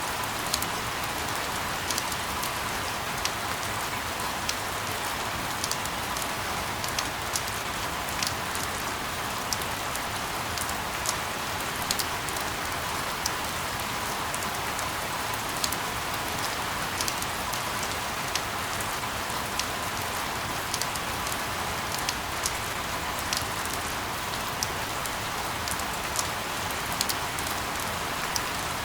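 Steady rain falling, with many separate drops ticking sharply on a surface over an even hiss.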